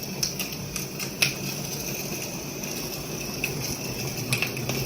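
Two G-scale live steam Accucraft Shay locomotives running together on track: a steady hiss with irregular light metallic clicks and clinks, the sharpest about a second in and several near the end.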